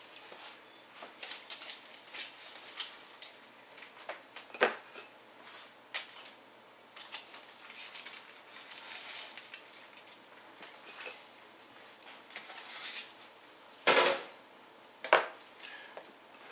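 Kitchen utensils and dishes clinking and clattering in irregular light clicks, with a few louder knocks about five seconds in and twice near the end.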